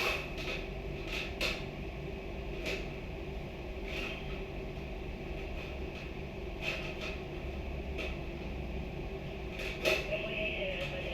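Scattered light knocks and clicks, about one every one to three seconds, over a steady low hum. A brief wavering tone comes near the end.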